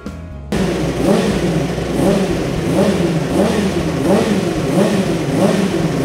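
Racing motorcycle engine revving, its pitch rising and falling in quick repeated swells. It starts suddenly about half a second in.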